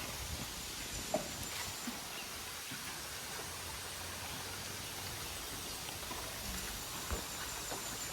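Steady outdoor hiss of a river with a few faint knocks and clicks, heard from a bamboo raft.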